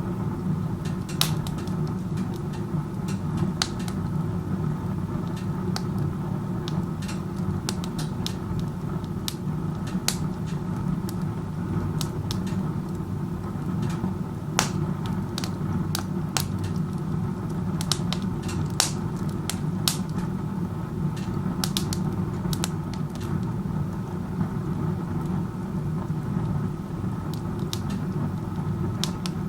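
Wood stove burning with its door open like a fireplace: a steady low rush of strong chimney draft pulling air through the fire, with irregular crackles and pops from the burning wood. The uploader finds the draft so strong that the stove burns inefficiently.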